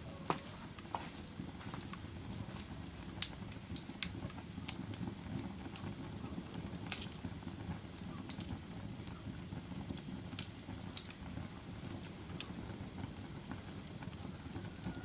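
Fire burning with a steady low rumble and scattered sharp crackles and pops, about a dozen, the loudest about 3 and 7 seconds in.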